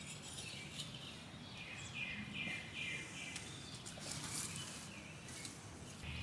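Songbird singing a quick run of about five down-slurred chirps about two seconds in, with other birds chirping faintly, over a steady outdoor background and soft rustling of hands in garden soil.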